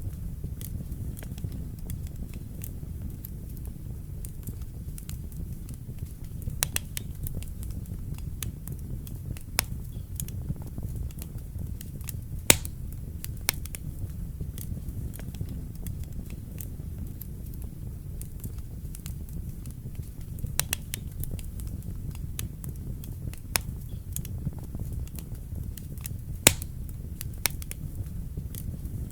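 Wood fire in a fireplace crackling: a steady low rumble of flames with sharp pops scattered irregularly, the loudest about twelve seconds in and near the end.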